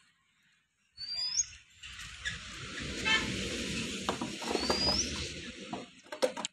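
A bird gives a short rising whistled call twice, over a broad rumbling, hissing outdoor noise that starts about a second in and carries a few sharp knocks near the end.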